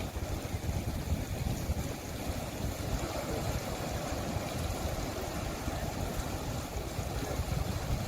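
Steady rushing and rumbling of sea water, with no distinct splashes or calls standing out.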